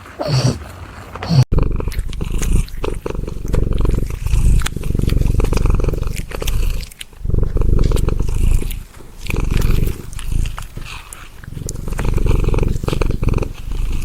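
A cat purring loudly close up, the rumble swelling and fading in a slow, steady rhythm, after a couple of short calls in the first second or so.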